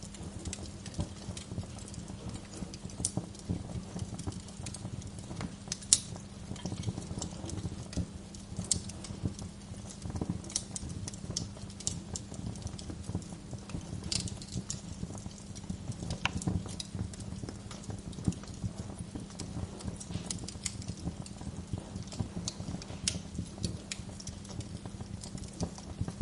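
Wood fire crackling in a fireplace: irregular small pops and snaps over a steady low rumble and hum, with one sharper pop about six seconds in.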